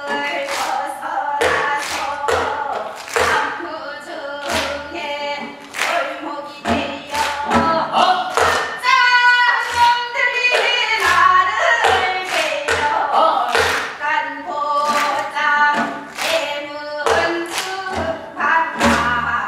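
Korean Gyeonggi folk singers performing hwimori japga, a fast patter song, with drum strokes marking a steady beat under the voices.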